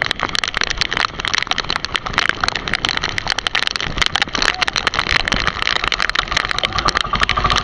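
Heavy rain in a squall at sea, a dense crackle of drops close to the microphone, mixed with strong wind.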